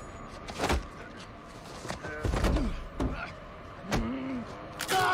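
A series of heavy blows and thuds against a car, about five of them roughly a second apart, with short pained grunts in between, from a TV fight scene's soundtrack.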